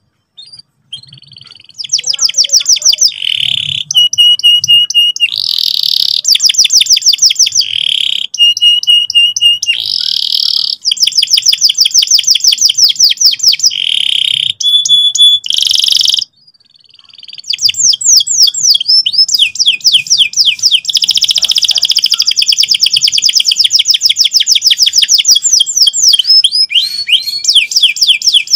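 Domestic canary singing loud, fast rolling trills and chirps. After a brief break past the middle, it goes into one long unbroken roll.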